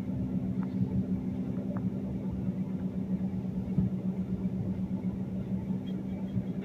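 Steady low drone and hum inside an airliner cabin, holding an even pitch with no spool-up.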